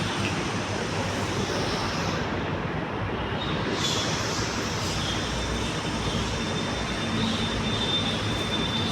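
Steady vehicle running noise, with a thin high-pitched squeal that sets in about three and a half seconds in and holds.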